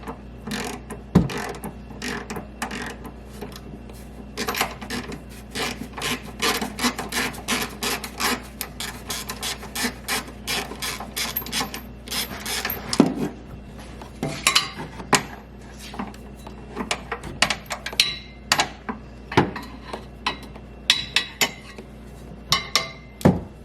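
Socket ratchet on a long extension clicking in quick runs as 13 mm exhaust hanger bolts are turned in, with a few sharper metal knocks in between.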